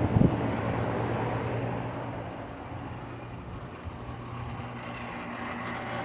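Outdoor air-conditioner condensing units running in cool mode, a steady hum of compressor and fan. It fades over the first few seconds and grows again near the end.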